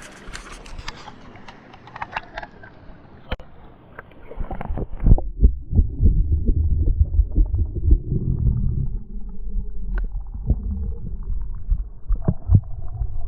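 Light splashing and clicks of the river water being handled, then from about four seconds in a loud, muffled low rumbling and gurgling of water with the high sounds cut off, as heard by a microphone dipped under the surface during a trout release.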